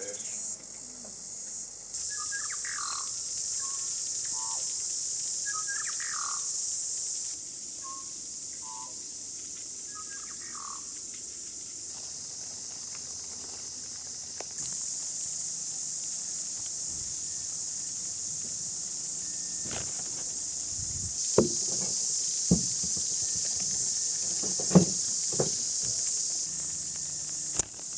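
A steady, high-pitched insect chorus, broken off and resumed at several points, with short bird chirps over it in the first part. Several sharp knocks come near the end.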